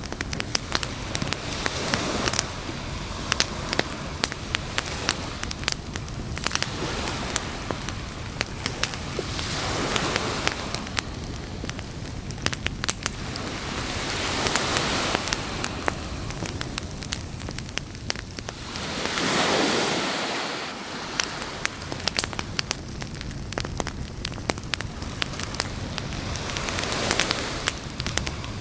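Campfire crackling and popping with many sharp snaps, over the hiss of waves that swell and fall back every several seconds, the strongest about two-thirds of the way through.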